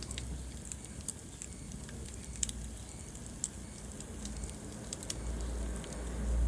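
Wood fire burning in a fireplace: irregular sharp crackles and pops over a low rumble of the flames, the rumble swelling near the end.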